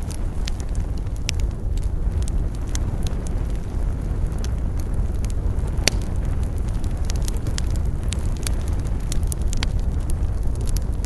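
Campfire burning with a steady low roar of flame and frequent sharp, irregular crackles and pops of the burning wood, one louder pop about halfway through.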